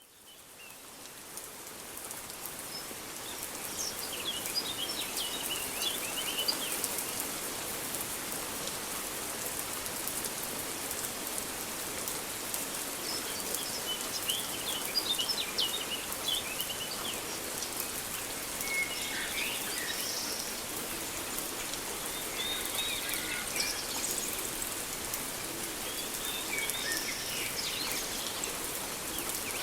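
Rainforest ambience: steady rain with clusters of short, high bird chirps every few seconds. It fades in over the first few seconds.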